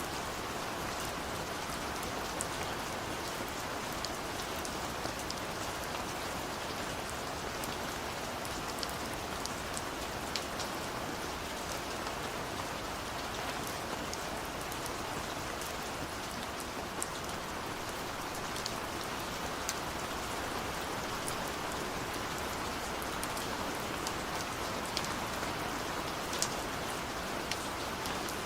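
Steady rain, falling on a window pane, with a constant hiss and many small scattered drop ticks.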